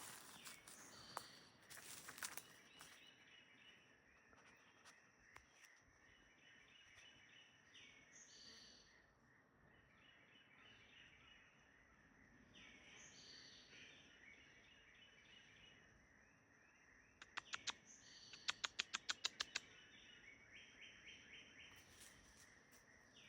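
Faint swamp ambience: a steady high-pitched drone with short chirping bird calls repeating every few seconds, and a quick run of about a dozen sharp clicks near the end.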